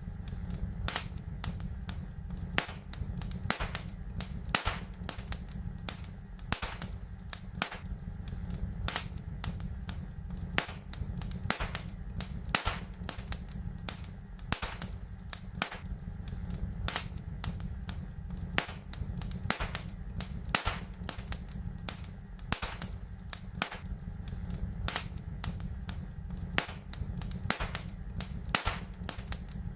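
Wood fire in a fireplace crackling, with frequent sharp pops at uneven intervals over a steady low rumble.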